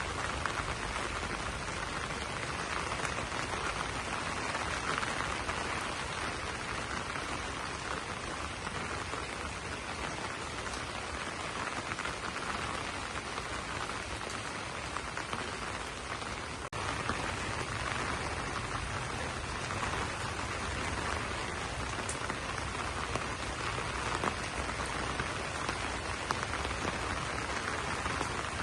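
Steady rain falling on banana leaves: a dense, even patter of drops, with a momentary break about two-thirds of the way through.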